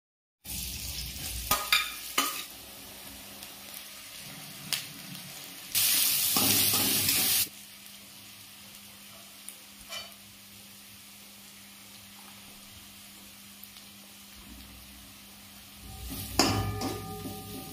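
Chopped onions frying in oil in a metal kadai with a steady sizzle, a metal spatula scraping and clattering against the pan near the start and again near the end. About six seconds in, a loud rush of sizzling lasts about a second and a half.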